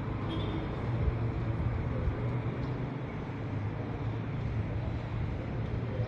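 Steady low mechanical rumble with a constant hum, like engine or traffic noise, and a brief high chirp about a quarter second in.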